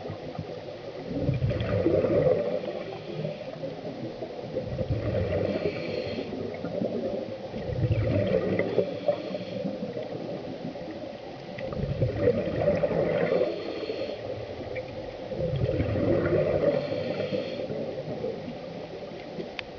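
Scuba diver breathing through a regulator underwater, in a slow repeating cycle: a thin hissing inhale, then a low gurgling rush of exhaled bubbles, about four breaths.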